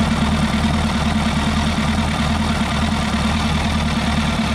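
Suzuki GSX-R 1000 K1's fuel-injected inline-four engine idling steadily while it warms up.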